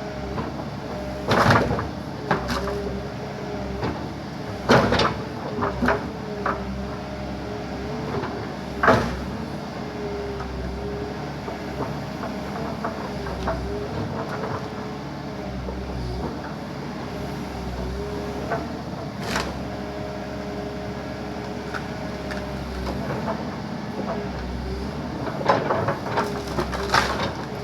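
Backhoe's diesel engine working steadily, its pitch rising and falling with the load, with sharp cracks and knocks several times as trees are broken and crushed: a cluster early on, single ones about 9 and 19 seconds in, and another cluster near the end.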